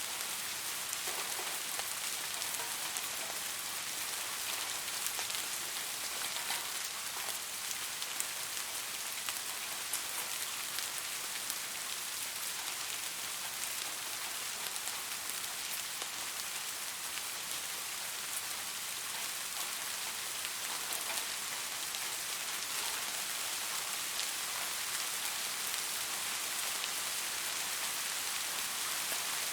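Steady rain falling and pattering on a surface, an even hiss of many small drop impacts.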